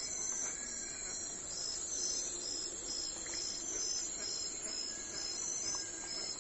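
Insects chirping in a steady high-pitched rhythm, about two pulses a second, with a few faint bird calls behind.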